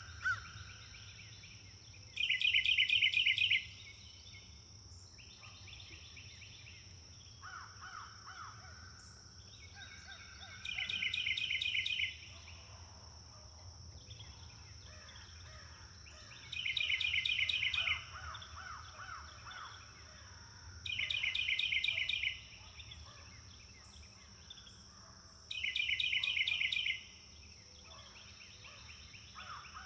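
Forest birds singing: five loud, rapid trilling phrases, each just over a second long, a few seconds apart, with quieter chirping between them over a steady high-pitched hiss.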